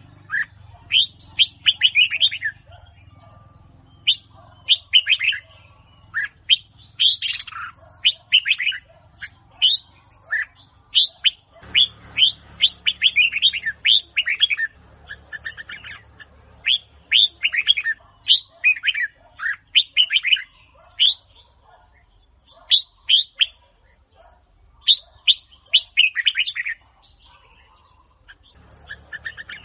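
Red-whiskered bulbul of the Huế song type singing: short bursts of quick, sharp whistled notes, repeated phrase after phrase with brief pauses between them.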